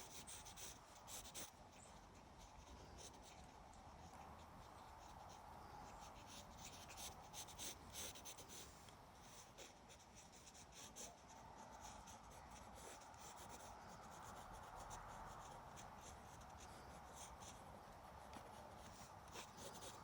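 Faint scratching of sketching strokes on paper: quick, loose strokes that come in short runs with pauses between.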